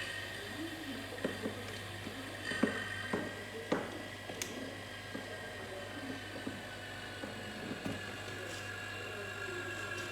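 An electric motor switches on with a click and runs with a steady hum and a high whine, with a few light knocks and clicks over it in the first four seconds.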